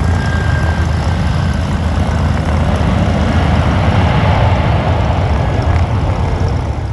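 Airliner engines running loudly and steadily, with a deep rumble underneath; the sound drops away sharply at the very end.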